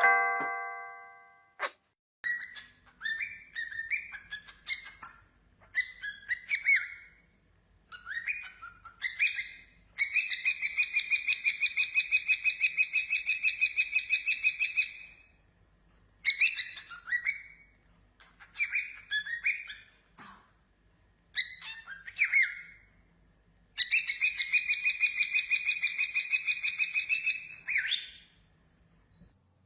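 A bird singing: short chirping phrases, then a long rapid trill of about five seconds, more chirps, and a second long trill of about four seconds near the end.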